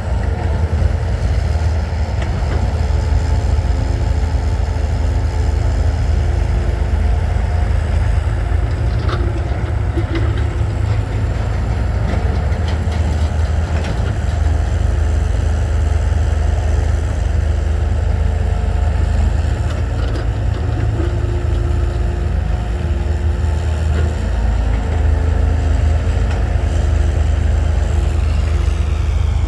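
Heavy diesel engine running steadily at a low idle-like hum, its tone shifting a little now and then, with a few faint knocks.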